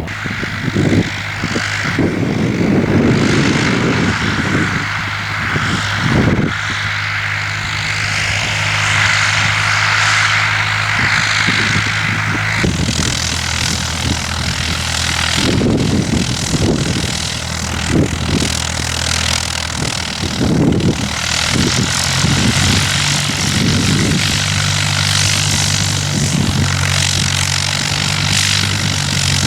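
Cessna 152's four-cylinder piston engine and propeller running at a steady note that changes to a new power setting about 13 seconds in, with gusts of wind buffeting the microphone.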